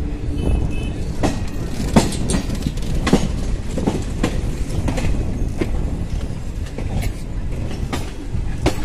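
Indian Railways passenger train running at low speed: a steady rumble with sharp wheel clacks over the rail joints, about one a second at irregular spacing.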